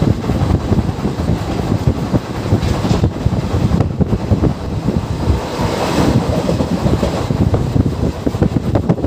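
Express passenger train running between stations: the steady noise of the moving coach, with wind buffeting the microphone.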